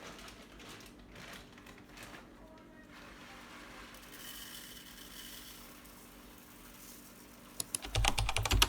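Faint room tone with light rustling, then a quick run of computer keyboard key clicks near the end.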